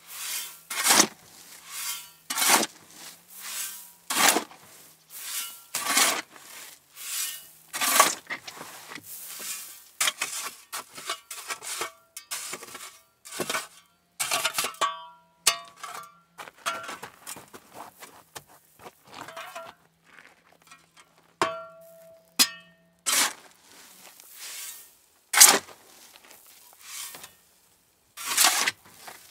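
Repeated sharp metal-on-metal strikes, each with a short ring, coming roughly every one to two seconds and then more irregularly, over a faint steady hum.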